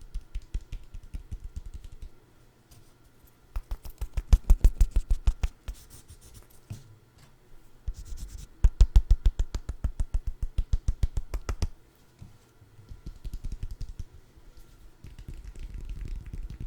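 Rapid, even tapping on a food item for ASMR, about ten taps a second, in two loud runs of a few seconds each with softer tapping before and after.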